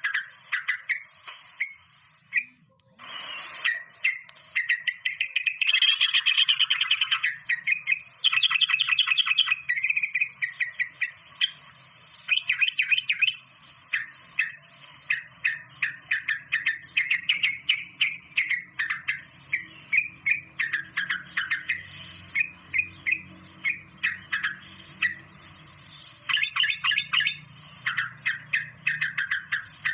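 Birds chirping in quick, repeated notes, with buzzy rattling trills about six and eight seconds in.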